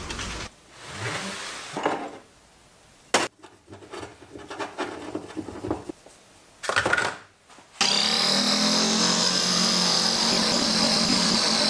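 Short knocks and handling noises from tools and parts, then a power tool's motor switches on about eight seconds in and runs steadily with a constant high whine.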